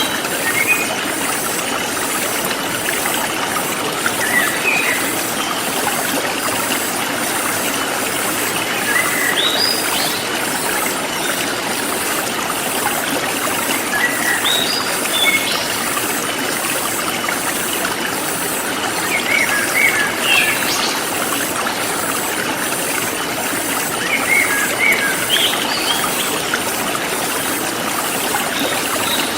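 Forest stream flowing steadily, with a small bird giving short bursts of chirps about every five seconds.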